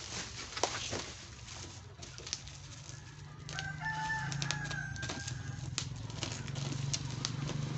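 A rooster crowing about halfway through, over scattered light clicks and taps.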